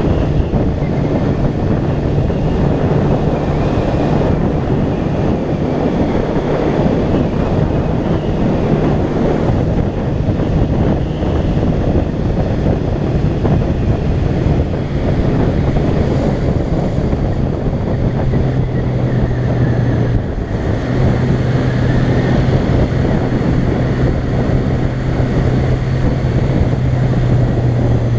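Honda CB400 Super Four Hyper VTEC Revo's inline-four engine running at a steady cruise, its note drifting slowly lower with a brief dip about twenty seconds in, under heavy wind rush on the microphone.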